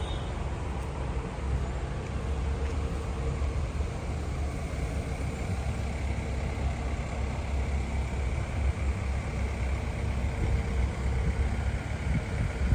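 A motor running steadily with a low rumble and a faint steady hum; a higher whine comes in about halfway through.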